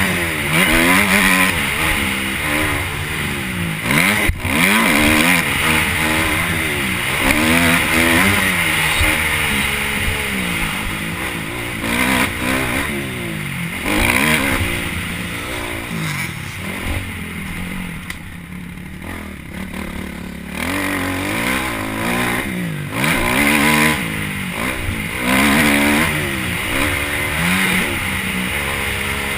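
Motocross motorcycle engine being ridden hard, revving up and dropping back again and again as the throttle opens and closes. There is a sharp knock about four seconds in, and a quieter stretch off the throttle a little past the middle.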